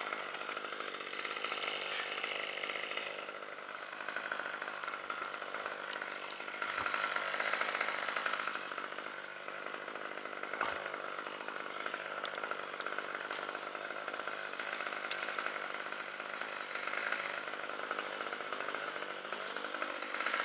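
Chainsaw running steadily, its engine note swelling and easing now and then.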